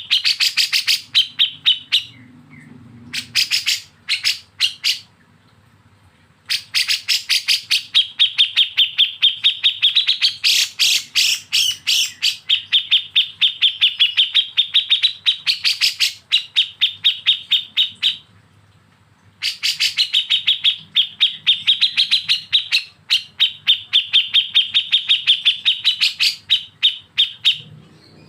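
A songbird's rapid staccato 'besetan' song: long runs of sharp, evenly repeated notes, about six a second, broken by a few short pauses, the longest run lasting over ten seconds.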